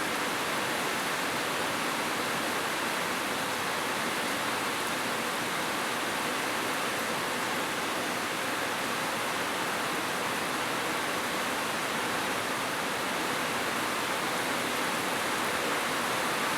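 Steady, even rush of flowing water, with no change.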